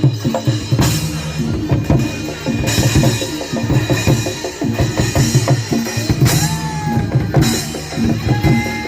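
Live percussion accompaniment for a Barongan Blora dance, with drums beating a fast, dense rhythm. A few short sliding high notes sound over the drumming about six and eight seconds in.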